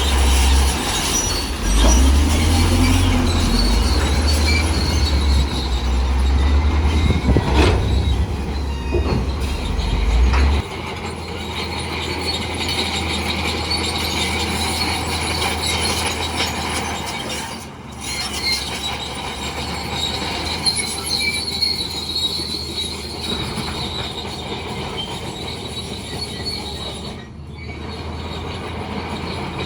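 Heavy earthmoving machinery working: a diesel engine running under a high metallic squeal of the kind steel crawler tracks make. The low engine rumble drops away about ten seconds in, while the squealing goes on.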